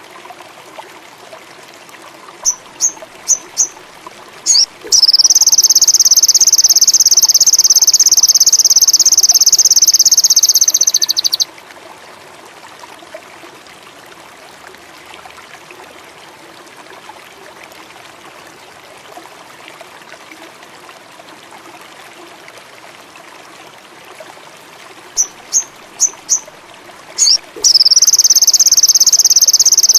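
Sogon indigo song: a quick series of sharp, high ticks, then a loud, steady, high-pitched buzz that lasts about six seconds. Near the end the ticks come again and lead into another buzz. Running water hisses steadily underneath.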